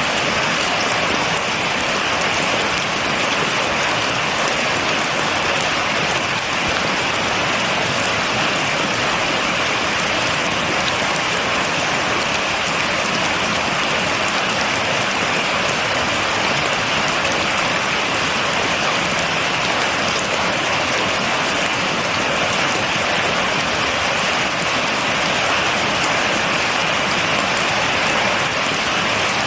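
Steady rain falling: an even, unbroken hiss of many drops with fine pattering ticks and no thunder.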